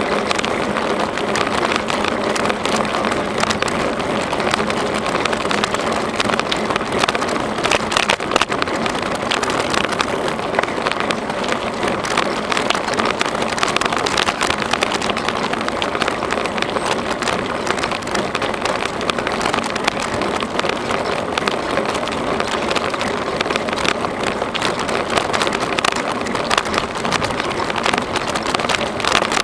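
Bicycle tyres rolling over a rough trail surface: a steady crackling rush dense with small clicks and rattles.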